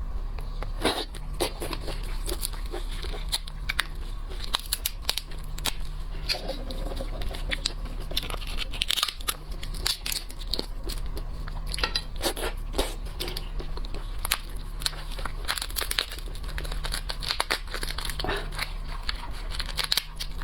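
Shrimp and crab shells being cracked and peeled by hand close to the microphone, with many irregular sharp cracks and crunches, over a steady low hum.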